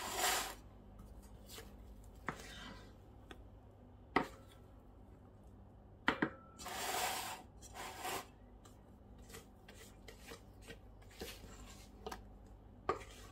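Spatula scraping thick cake batter out of a stainless-steel mixing bowl into a metal tube cake pan: scattered scrapes and soft knocks, with a longer scrape about seven seconds in.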